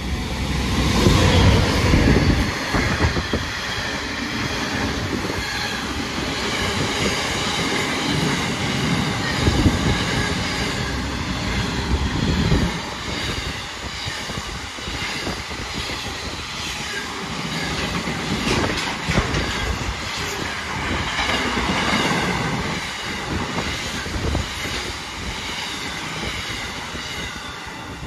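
Passenger train running past, its wheels clattering over the rail joints, with high-pitched squealing and whining over the rumble. It is loudest in the first two seconds.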